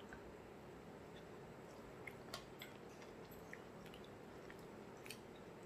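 Faint chewing of a spoonful of fried mushroom in gravy, with a scattering of small wet mouth clicks, most of them in the middle and near the end.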